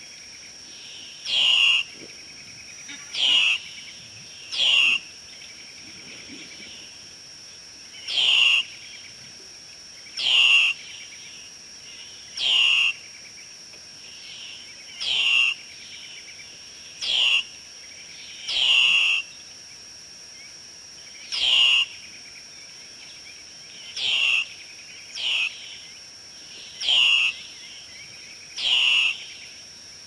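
A bird giving a short call over and over, roughly every one to three seconds, each call dropping in pitch, over a steady high-pitched hum.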